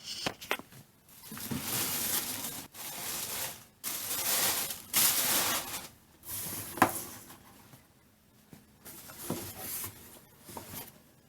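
Plastic wrapping and bubble wrap rustling and crinkling in a run of bursts about a second long, with a few sharp clicks, as a large plush toy is worked out of its cardboard box.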